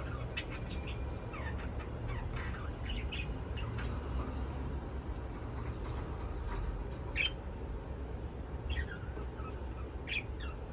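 Budgerigar chirping: short scattered chirps, many falling quickly in pitch, over a steady low hum.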